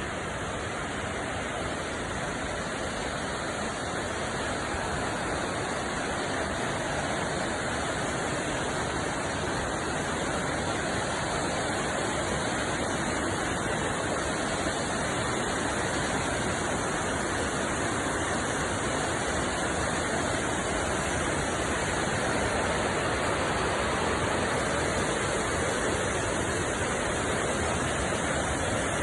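Waterfall: a steady rush of falling water, growing slowly louder.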